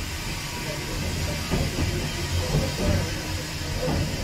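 Autocoach running slowly along the track: a steady low rumble and hiss from the wheels, with a few separate knocks as it rolls over rail joints.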